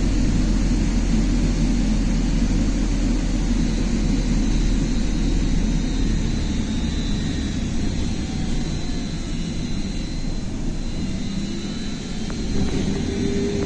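Inside a BKM-43300D trolleybus under way: steady rumble and road noise with a thin high whine. The deepest rumble drops off about halfway through, and there is a small knock near the end.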